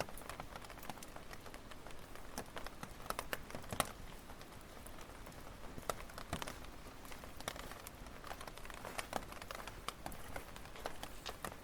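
Wood fire crackling, with irregular sharp pops and snaps, a few louder than the rest, over a soft steady hiss.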